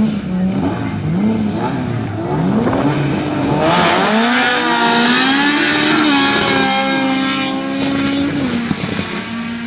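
Twin-turbo 2JZ inline-six in a Toyota Corolla accelerating hard. The engine pitch climbs in several short sweeps through quick gear changes, then pulls in one long rising run of about four seconds before backing off near the end.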